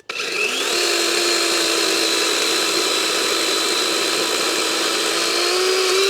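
Chainsaw at full throttle cutting through a log. It comes up to speed within the first second, holds a steady pitch, and winds down as the throttle is released at the end.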